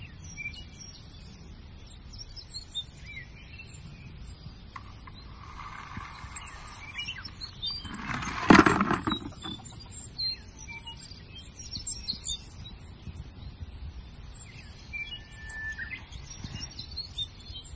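Small birds chirping on and off in the background, with one sharp knock about eight and a half seconds in.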